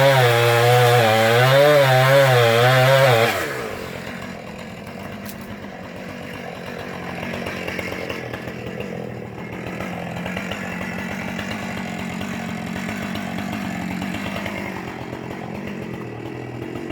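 Two-stroke chainsaw at high revs, its pitch wavering as it bogs and recovers under load in a cut. About three seconds in the throttle is released and the saw drops to a much quieter running sound for the rest of the time.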